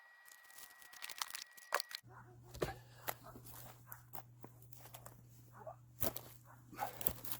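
Footsteps with rustling, crinkling handling noises and scattered sharp knocks. A low steady hum comes in about two seconds in.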